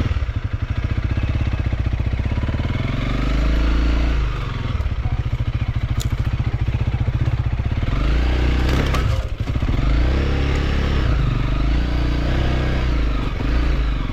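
Small motorcycle engine running under load, its revs rising and falling several times as the bike is ridden slowly up rough ground.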